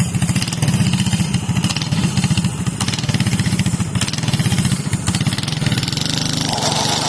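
The 212cc single-cylinder four-stroke engine of a Coleman mini bike running hard with a throbbing exhaust note that swells and dips unevenly. About six and a half seconds in the note turns smoother and steadier, with a higher hiss above it.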